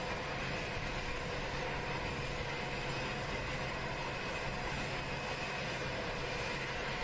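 Jet engines of Air Force One, a Boeing VC-25A (747), running steadily: a constant whine of fixed tones over a rumbling noise.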